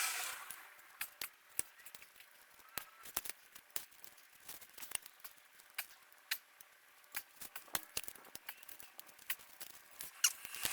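Vise-grip locking pliers clicking and scraping on steel studs as the old studs are gripped and twisted out of a Kubota V2203 exhaust manifold: a run of irregular sharp clicks.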